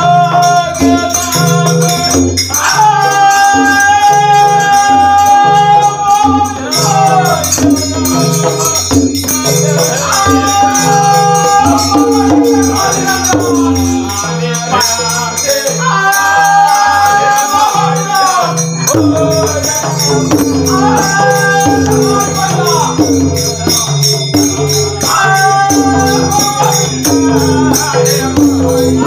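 Devotional bhajan sung in repeated phrases of long held notes. It is backed by a steadily beating hand drum and jhaal brass hand cymbals that jingle without a break.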